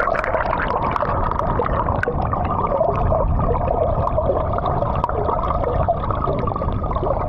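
Water gurgling and sloshing around a small hand-rowed boat as it is paddled along, with a low rumble of wind on the microphone.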